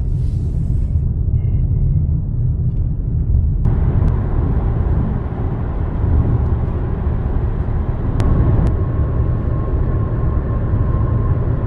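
Steady low rumble of a car driving, road and engine noise, with a jump in hiss about three and a half seconds in.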